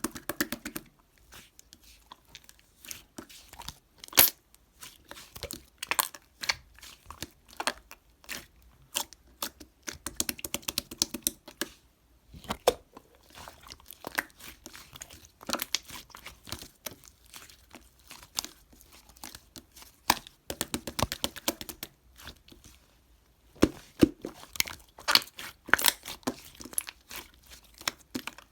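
Crinkly material such as paper or plastic being handled close up: irregular crinkling, short tearing sounds and small taps and clicks.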